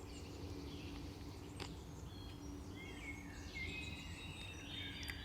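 Wild birds singing, with chirping, warbling phrases that get busier about halfway through, over a faint steady low hum. There is a single sharp click about one and a half seconds in.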